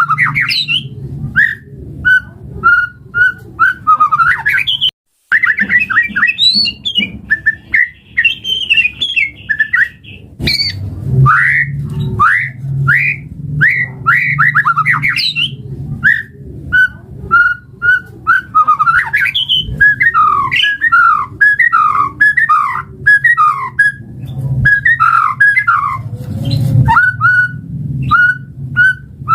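White-rumped shama (murai batu) singing: runs of short repeated whistled notes, several a second, broken by fast chattering phrases of rising and falling notes. A steady low hum runs underneath, and the sound drops out briefly about five seconds in.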